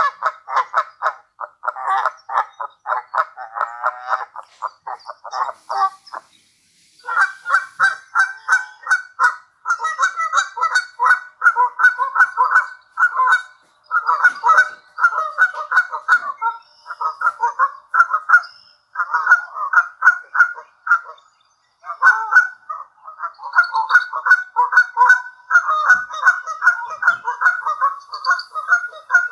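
Canada geese honking in fast, continuous runs of calls, which the uploader takes as begging for food, with brief pauses about six seconds in and again past the middle.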